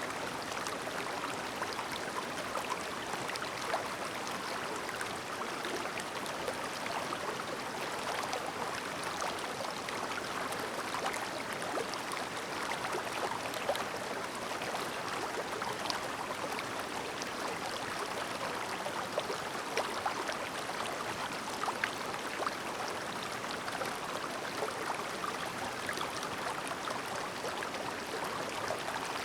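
Clear, shallow stream babbling steadily over rocks, with many small splashes and plinks of water.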